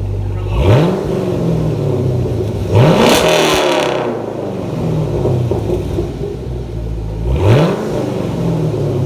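Camaro SS V8 with an X-pipe and resonator and muffler delete, idling with a deep tone and blipped three times. Each rev climbs quickly and falls back to idle, and the one about three seconds in goes highest and lasts longest.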